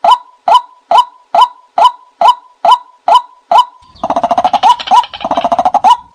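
Call of the 'nok kai na' bird, a waterbird of rice fields, played as a decoy recording: a steady series of short, sharp notes about two and a half a second, broken about four seconds in by two quick bouts of a fast rattling call before the steady notes resume.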